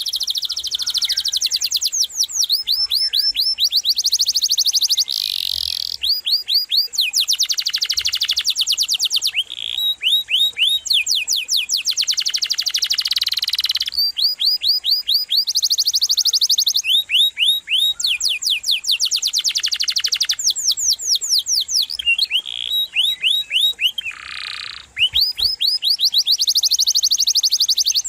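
Domestic canary singing a long rolling song: fast trills of rapidly repeated high notes, switching to a new trill every second or two with hardly a pause.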